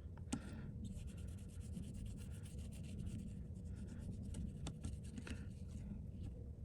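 Fast, scratchy rubbing on the surface of an iPhone OLED display panel, with a few sharper clicks, as the last traces of the old adhesive are cleaned off.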